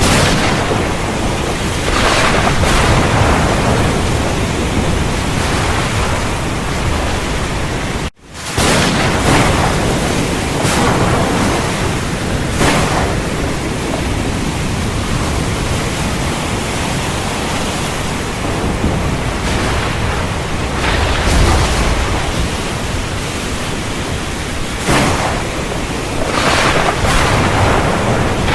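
Heavy rain falling steadily in a thunderstorm, with thunder cracking and rumbling several times. The sound cuts out for a split second about eight seconds in.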